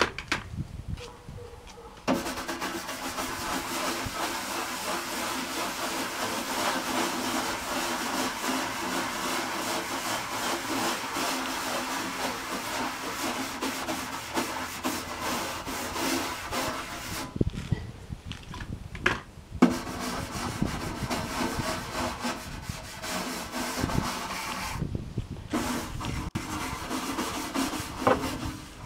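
Big brush scrubbing the dirty plastic case of a Packard Bell Legend 386X computer in long, continuous strokes. The scrubbing starts about two seconds in and pauses briefly twice, once after about seventeen seconds and again near twenty-five seconds.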